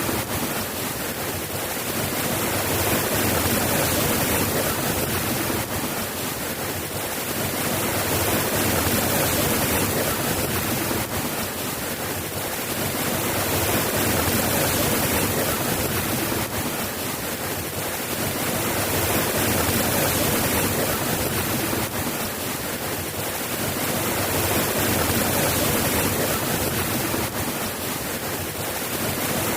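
Steady rain falling, an even hiss that swells and eases gently about every five seconds.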